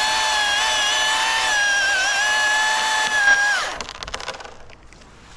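Cordless chainsaw spinning up to full speed, running with a steady high whine for about three and a half seconds, then winding down as the trigger is released.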